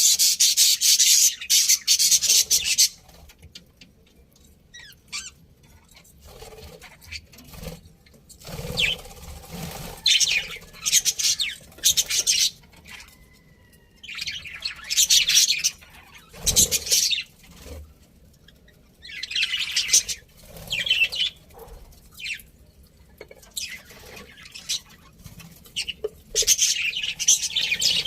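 Budgerigars chattering and chirping in bouts, loudest in the first few seconds, again about halfway and near the end, with quieter spells and scattered single calls between.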